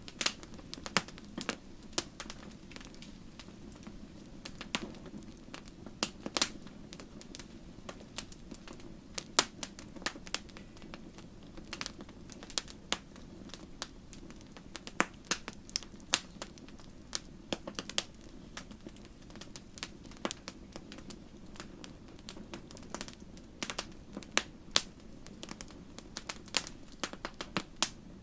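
Wood campfire crackling: irregular sharp pops and snaps several times a second over a low steady rumble of the flames.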